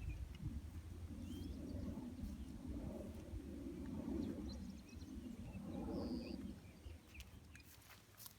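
Wind buffeting the microphone in gusts, a low rumble that eases off near the end, with a few short bird chirps over it and one brief high whistled bird note about six seconds in.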